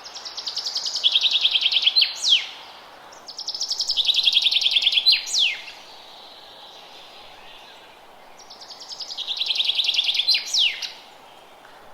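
A songbird singing the same song three times. Each song is a rapid trill that grows louder and steps down to a lower pitch partway through, then ends in a sharp downward-swooping note. A faint steady hiss sits underneath.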